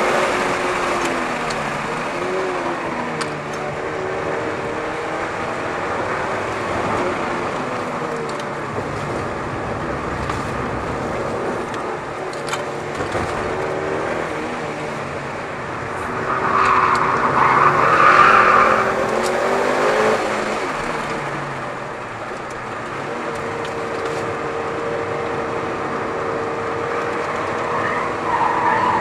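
Mitsubishi Lancer Evolution VIII's turbocharged four-cylinder engine being driven hard on track, its revs climbing and dropping with gear changes and corners. Its old, hardened slick tyres squeal for about two seconds past the middle, and briefly again near the end.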